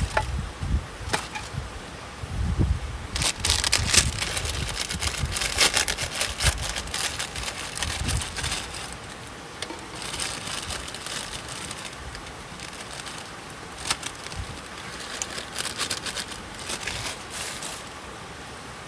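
Wood crackling and snapping in bursts of dense sharp crackles, with a few low knocks in the first seconds.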